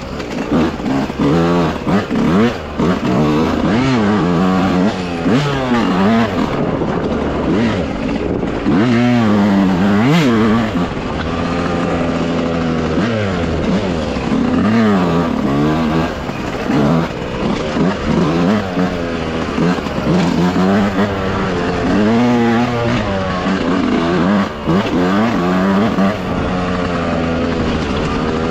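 Dirt bike engine revving up and down over and over as it is ridden along a trail, its pitch rising and falling every second or two with the throttle.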